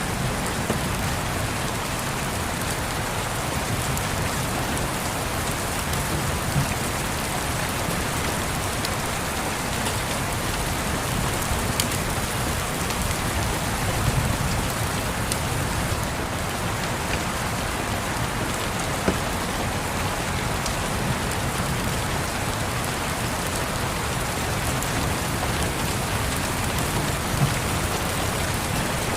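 Steady rain falling on a surface, with a handful of sharp pops from a crackling wood fire scattered through it.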